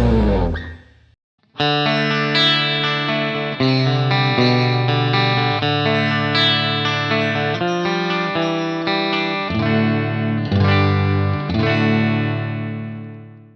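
Electric guitar with Leosounds Fireball single-coil pickups played clean through a Fender Bassman amp: picked chords and ringing notes. The guitar comes in after a brief gap about a second and a half in and fades out near the end.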